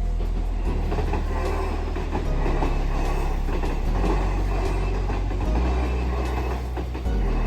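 A Kintetsu Minami-Osaka Line electric train running past, a steady loud rush of running noise with wheels clicking on the rails.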